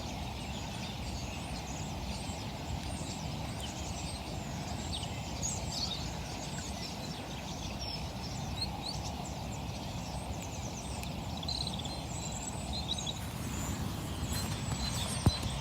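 Riverside ambience: a steady low rush with small birds chirping and twittering throughout, and a single knock near the end.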